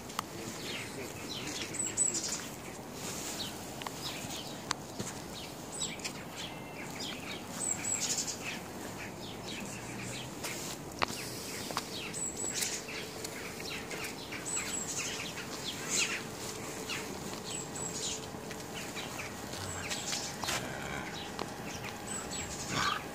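Small birds chirping, short high notes every second or two, over a steady outdoor background hum.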